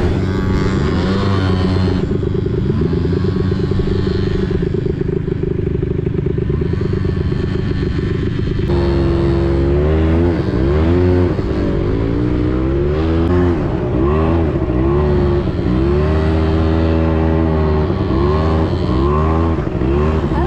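Quad bike engine running and revving up and down as it rides, its pitch rising and falling, with an abrupt change in the engine note about nine seconds in.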